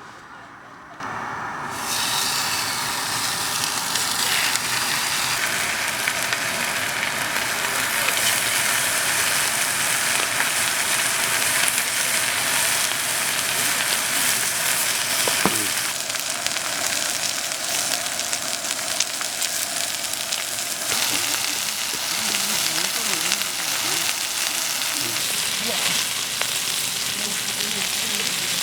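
Food sizzling in a hot pan. It starts suddenly about a second in, gets louder a second later, then keeps up a steady loud sizzle.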